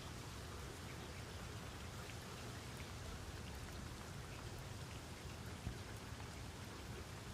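Steady rain falling, an even hiss with scattered drop ticks and one slightly louder drip a little before the end.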